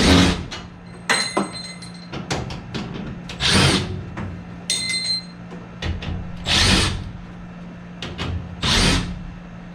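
Brief whirs of a cordless drill-driver mixed with four louder rasping scrapes, each about half a second long, and scattered small clicks, over a steady low hum.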